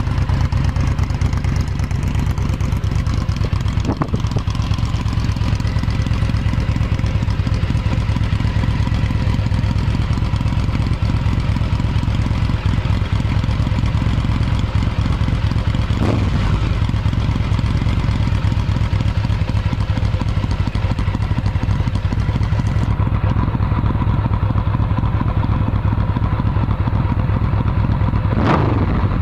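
Yamaha VMax 1700's V4 engine idling steadily through Akrapovic exhausts, with a small throttle blip about halfway and a sharper rev near the end.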